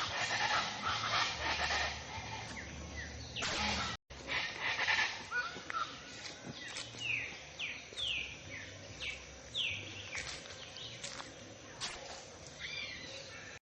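Birds calling, with a run of about five quick, falling whistled notes in the middle, over bursts of hissing noise. The sound cuts out for an instant about four seconds in.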